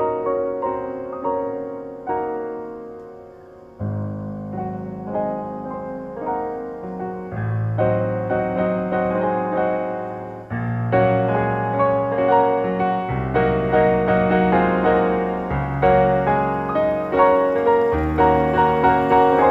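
Background piano music: a gentle melody of struck notes that ring and fade, joined by low bass notes about four seconds in and growing fuller and louder about ten seconds in.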